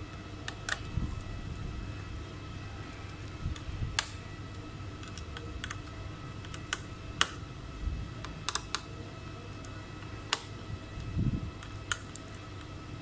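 Light, sharp clicks and taps at irregular intervals, about fifteen in all, over a steady electrical hum, with a few soft low thumps.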